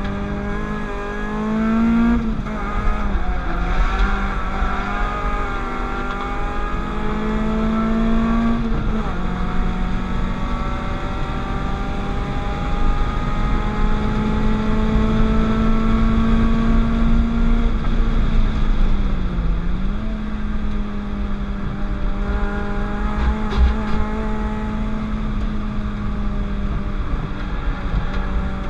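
Peugeot 205 GTI's 206 RC 2.0-litre 16-valve four-cylinder engine driven hard around a race circuit. Its pitch climbs and drops back at upshifts about two and nine seconds in, then holds high, dips briefly about twenty seconds in and climbs again.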